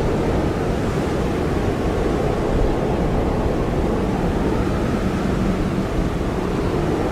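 Blizzard wind blowing hard and steadily, a deep, even rush with no breaks.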